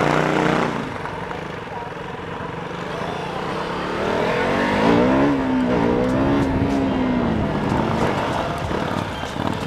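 KTM Duke 200's single-cylinder engine running during a test ride, its revs rising and falling with the throttle.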